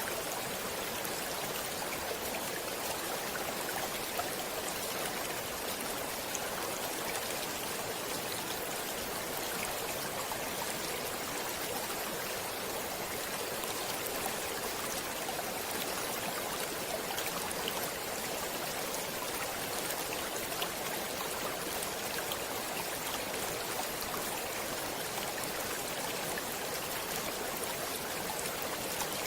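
Flowing stream water running steadily, a constant rush with small splashes and drips ticking through it.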